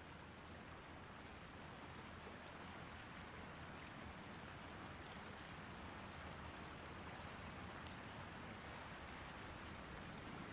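Creek water running, a faint steady rush.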